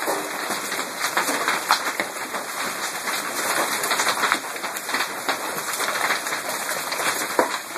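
Hailstones pelting down, a dense, continuous clatter of sharp hits on hard surfaces.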